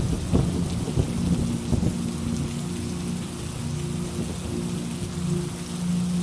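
Steady rain with a low rumble of thunder, cracking most sharply in the first two seconds.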